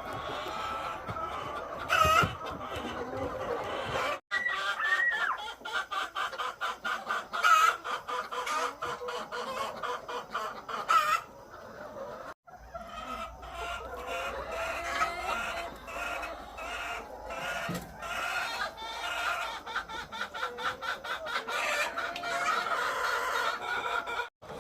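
A flock of egg-laying hens clucking all together in a chicken house, a dense overlapping chorus with a few louder single calls standing out.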